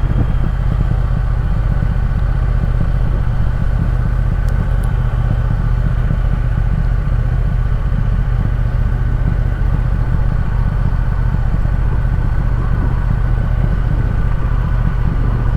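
Triumph Speed Twin's parallel-twin engine running steadily under load as the motorcycle climbs a steep grade.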